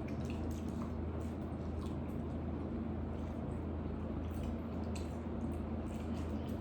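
Wet chewing and mouth sounds of people eating chicken wings: scattered small smacks and clicks over a steady low hum.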